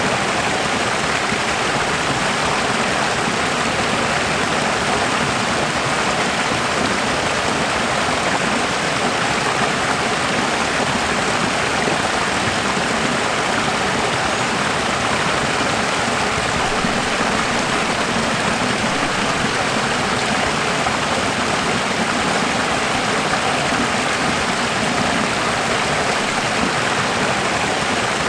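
Running water rushing steadily, an even unbroken hiss like a stream.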